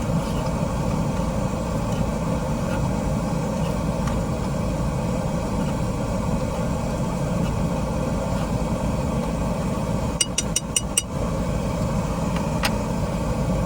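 Steady hum of a car engine idling, heard from inside the car's cabin. A quick run of light clicks comes about ten seconds in, and one more follows a couple of seconds later.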